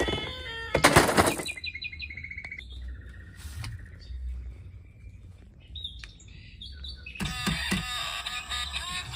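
A short noisy burst, then a run of short electronic beeps and chirps, and music with a steady beat starting about seven seconds in.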